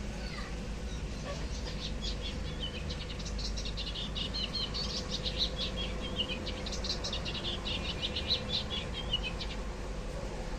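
Birds chirping in a fast, busy run of short high notes, over a steady low background hum.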